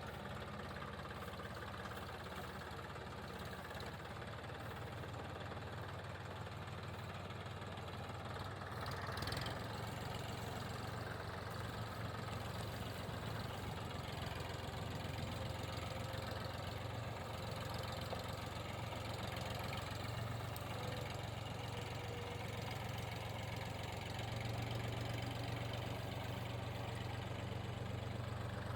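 Massey Ferguson tractor engine running steadily, a little louder from about nine seconds in.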